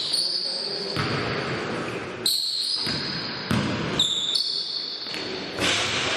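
Basketball game sounds in a large hall: the ball bouncing on the court with sharp knocks, under indistinct voices and echo.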